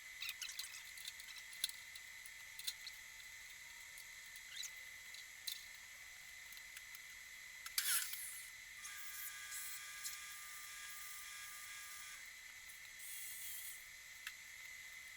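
Faint scattered clicks and knocks, with one louder clatter about eight seconds in, over a steady high-pitched whine.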